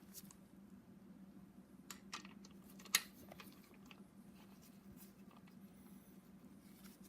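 A few sharp clicks of hand tools on the connecting rod cap bolts, with two light ones about two seconds in and a louder one about three seconds in, over a steady low hum.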